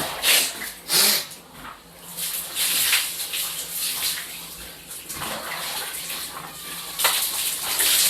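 Water splashing in irregular bursts, the sound of people bathing and splashing in water.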